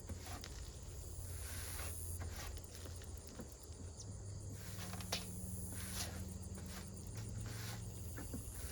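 Insects chirping in a steady, finely pulsing high drone, with a handful of short knocks and scrapes scattered through, the loudest about five seconds in.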